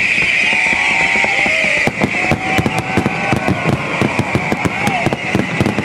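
Fireworks display: a dense crackling hiss from glittering crackle effects, then from about two seconds in a rapid string of sharp bangs as shells burst overhead.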